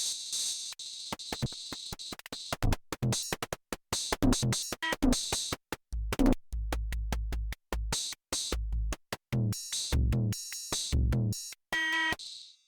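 Nord Drum 3P drum synthesizer playing a simple programmed rhythm pattern on one of its preset kits. Quick bright hi-hat-like ticks run throughout, and deep kick-drum hits join about six seconds in. The pattern stops shortly before the end.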